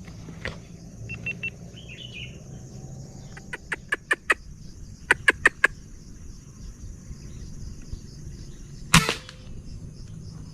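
Two quick runs of four or five sharp clicks, then a single louder crack with a short ring about nine seconds in, fitting a PCP air rifle shot. A faint steady high hiss lies under it all.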